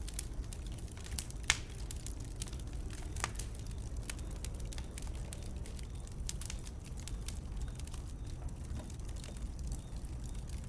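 Wood burning in a bonfire, crackling with scattered sharp pops over a low steady rumble; one pop about a second and a half in stands out louder than the rest.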